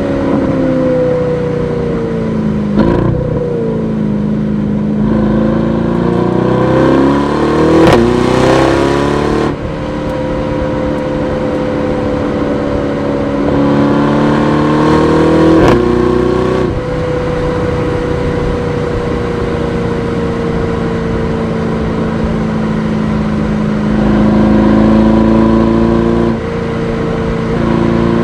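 Aston Martin DBX S 4.0-litre twin-turbo V8 accelerating. The engine note climbs, drops sharply about ten seconds in and again around sixteen seconds, as at upshifts, then settles into a steadier, slowly falling note.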